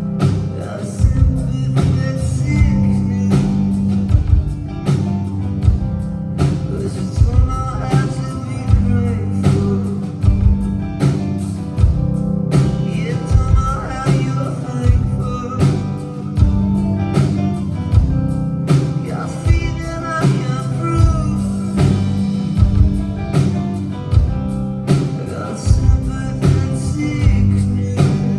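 Live rock band playing: heavy bass, guitars and drums at a steady beat.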